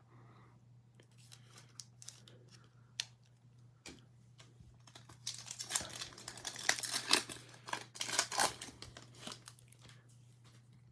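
A trading-card pack's foil wrapper being torn open and crinkled, a few seconds of crackling starting about five seconds in after some light clicks and handling, over a faint steady hum.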